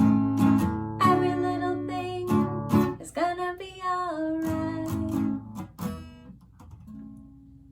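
Acoustic guitar strumming the end of a song, with a sung note held about three seconds in. The strumming stops about six seconds in and a last low note rings on faintly.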